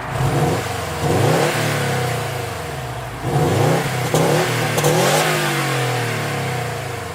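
Subaru WRX STI S209's turbocharged 2.5-litre flat-four engine being revved several times, the pitch climbing and falling back to idle each time, with two quick revs close together in the middle.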